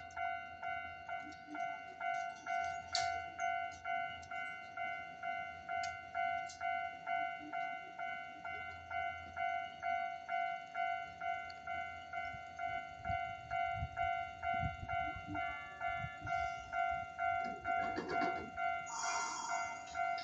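Railway level-crossing warning bell ringing steadily, about two dings a second. From about thirteen seconds in, a Hankai Tramway Mo 501-type tram starts pulling away with a low rumble, and a short hissing burst follows near the end.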